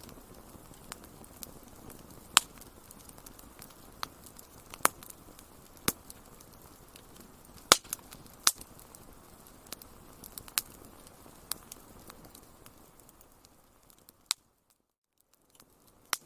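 Wood fire crackling in a fireplace: sharp, irregular pops and snaps over a low, steady hiss. The hiss drops away briefly near the end before another snap.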